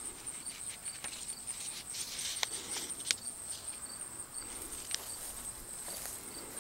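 Insects trilling steadily at a high pitch, with fainter chirps repeating underneath. A few sharp clicks stand out over the trilling, two close together about two and a half to three seconds in and one about five seconds in.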